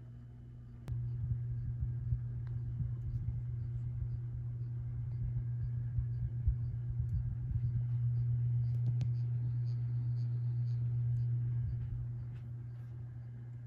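Motor of a 36-inch View Fan Spinner V36R ceiling fan running on low speed with a steady, pretty hummy mains hum, without the pulsing of cyclic flux or any bearing noise. A click about a second in, after which the hum is louder until it eases off near the end.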